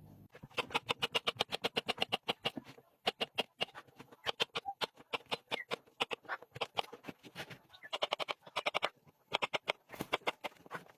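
Kitchen knife chopping a courgette on a chopping board in quick runs of rapid chops, about seven or eight a second, with short pauses about three seconds in and again near nine seconds.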